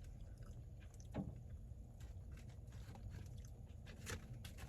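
A person chewing a mouthful of food, faint small wet clicks and smacks over a low steady room hum.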